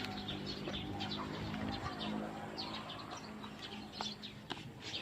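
Birds chirping, many short repeated chirps, with steady low tones of background music fading out about four seconds in.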